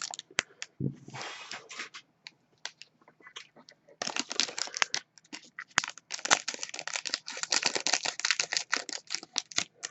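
Plastic packaging being crinkled and handled, a dense run of sharp crackles and clicks with a short rustle about a second in, busiest in the second half.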